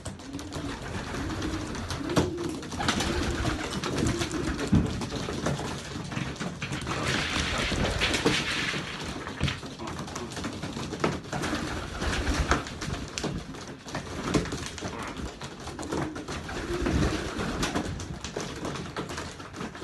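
Young racing pigeons cooing repeatedly, low rolling calls, with scattered clicks and scuffs from the birds moving.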